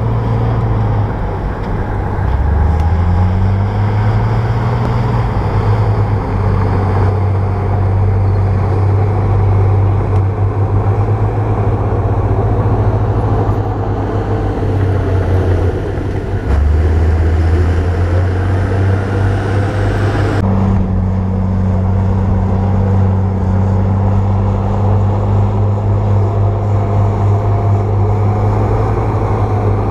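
Bulldozer's diesel engine running steadily under load. It revs up twice, a couple of seconds in and again just past halfway, and the sound changes abruptly about two-thirds of the way through.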